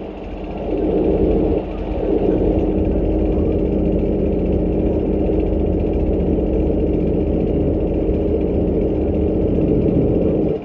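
Diesel engine of a KiHa 183-1000 series railcar running steadily under the floor, heard from inside the passenger car, with the rattling noise that the rider wonders is a fault or the engine's age.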